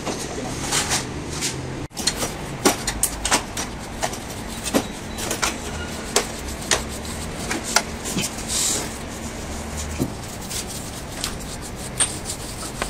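Irregular sharp knocks and taps from stone-laying work, with a short hiss about eight and a half seconds in, over a steady low hum.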